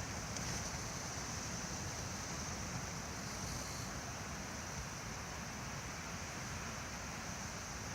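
Strong wind blowing steadily, a constant rushing with a low, fluttering rumble of wind buffeting the recorder's microphone.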